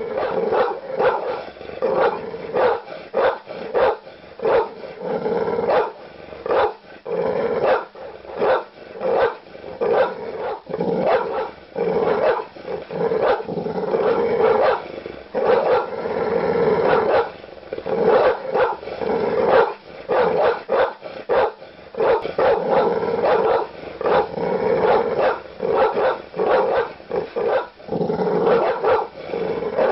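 Large dog barking aggressively and loudly, deep barks coming in rapid runs with hardly a pause.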